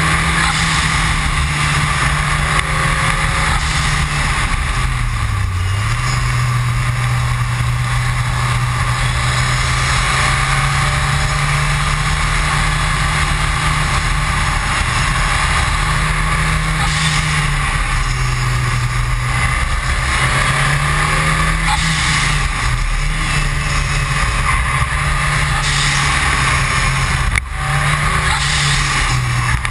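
Ford Escort RS Cosworth's turbocharged 2.0-litre four-cylinder running hard at speed on track, its pitch falling and climbing again about five seconds in and shifting several times after. A steady rush of wind and tyre noise runs under it, and there is a sudden brief drop in loudness near the end.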